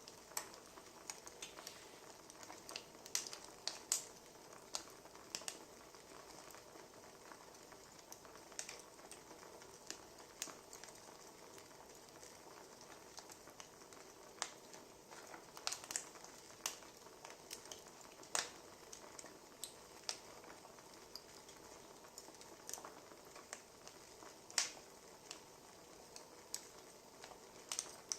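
Wood fire crackling: irregular sharp pops and snaps, a few louder than the rest, over a soft steady hiss.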